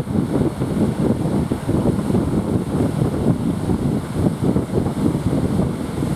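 Strong wind buffeting the microphone in a rough, uneven low rumble, over the wash of sea surf.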